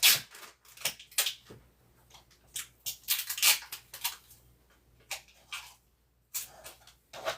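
Tape being pulled off the roll and plastic window sheeting crinkling as it is handled and pressed into place: a run of short, irregular rasps and crackles with quiet gaps between.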